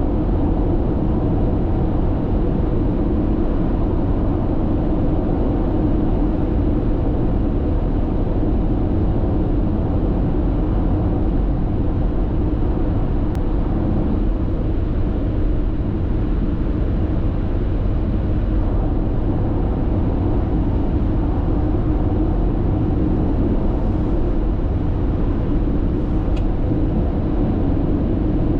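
Steady road and tyre noise heard inside a car's cabin cruising at constant speed on an expressway, a low even rumble, with two faint brief ticks, one about halfway through and one near the end.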